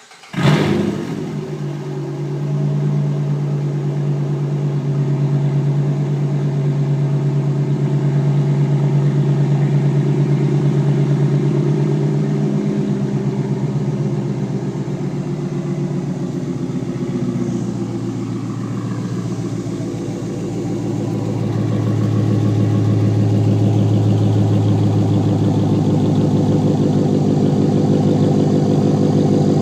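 2015 Dodge Charger R/T's 5.7-litre HEMI V8 through a straight-piped exhaust, starting with a loud flare about half a second in and then idling. The idle drops in pitch about a third of the way in and again around two-thirds, as a cold start settles from a high idle.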